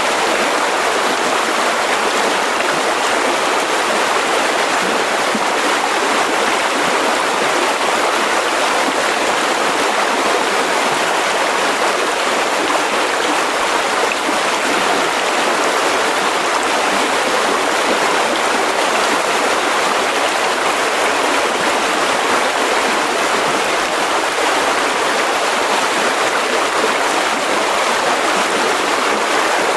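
Mountain river rushing over rocks: a steady, even flow of water noise with no breaks.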